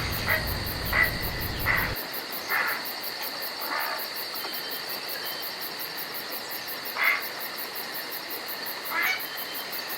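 Steady, shrill chorus of crickets and other insects, with several short chirps standing out over it at irregular intervals.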